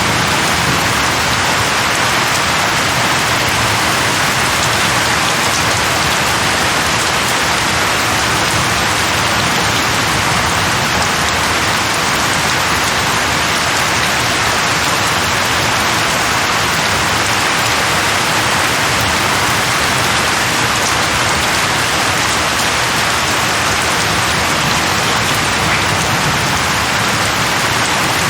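Steady heavy rain falling on a surface, an even continuous patter with no breaks or thunder.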